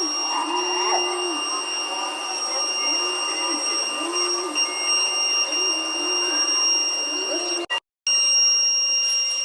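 Electric power tool motor running with a steady high whine, its lower hum stepping up and down in pitch as the load on it changes. The sound cuts out briefly about eight seconds in.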